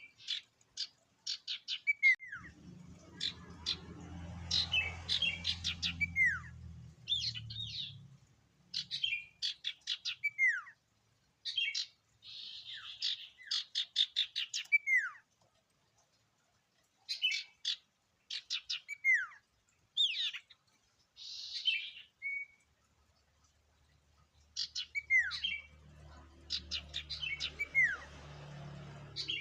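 Sirtu songbird singing in phrases of rapid chattering trills, each broken by a down-slurred whistle, with short pauses between phrases. A low hum sits under the song for a few seconds after the start and again near the end.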